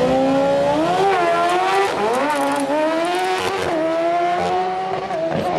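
Racing motorcycle engine revving, its pitch rising and dropping several times before holding steady at a higher pitch for the second half.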